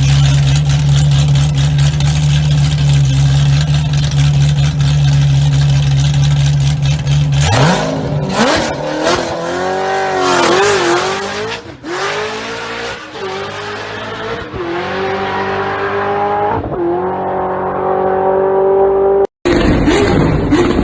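Performance car engine holding a steady deep note, then revving and accelerating hard, its pitch climbing and dropping with each gear change before one long rising pull. A sharp cut to a different sound comes near the end.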